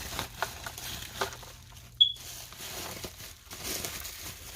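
Plastic packaging crinkling and rustling as a nail lamp is handled out of its wrapping, with scattered small crackles. About two seconds in there is one sharp click with a brief high tone.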